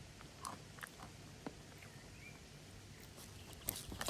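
Faint outdoor background with a few scattered small clicks, then a louder rustling noise rising near the end.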